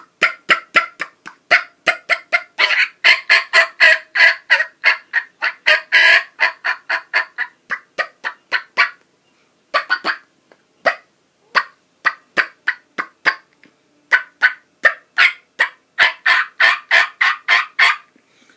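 Turkey diaphragm mouth call blown in a long run of short, sharp clucks, about five a second, more than a single cluck and close to cutting. The notes thin out and slow about halfway, then run fast again near the end.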